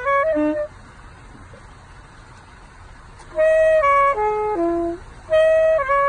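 Flute played as a melody of held and stepping notes in short phrases: a brief phrase at the start, a pause of about three seconds, then two more phrases.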